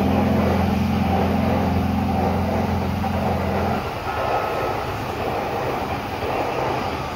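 Electric commuter train of the Utsunomiya/Takasaki lines passing below, a steady rumble of running noise. A low steady hum over the rumble stops suddenly about four seconds in.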